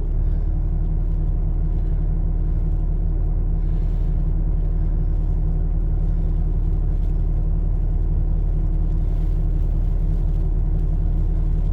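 A vehicle engine idling steadily, heard from inside the cab as a constant low rumble.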